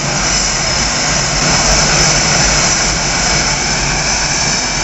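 Jet engines of Blue Angels F/A-18 Hornets running steadily, a continuous rushing noise with a high-pitched turbine whine.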